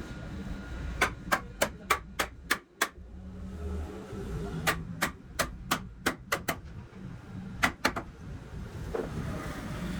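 Hammer blows in quick runs of about three a second: one run of about seven strikes, a short pause, a second run of about eight, then a quick double strike. A low steady hum sits underneath.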